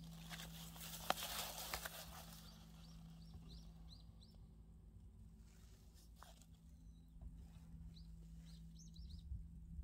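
Small birds chirping faintly, many short high calls scattered through the second half. A brief rustling noise in the first couple of seconds is the loudest thing.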